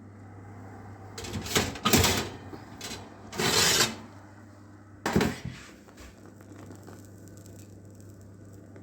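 Kitchen handling noises from food preparation: a few clattering knocks between about one and two seconds in, a brief scraping rustle of about half a second a little later, and one more knock about five seconds in.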